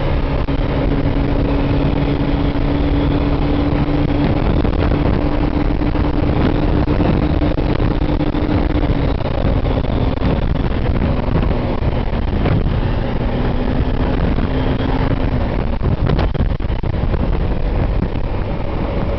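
Gilera Runner VX 125 scooter's single-cylinder four-stroke engine running at high, near-steady revs while riding at speed, under a heavy rumble of wind on the microphone. The engine note eases down a little about nine seconds in and again around sixteen seconds.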